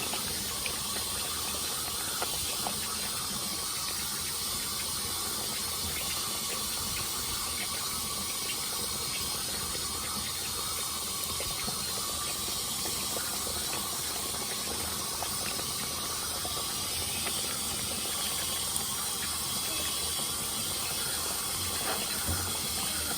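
Bone-in chicken with tomatoes frying in a pot of hot oil: a steady sizzle with a few faint ticks.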